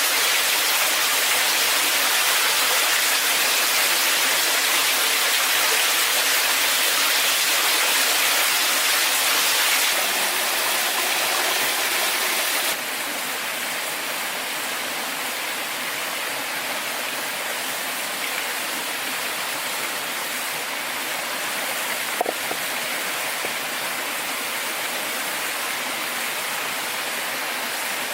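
Steady rushing water, a continuous even hiss that drops a little in level twice, about ten and thirteen seconds in; a faint click near the end.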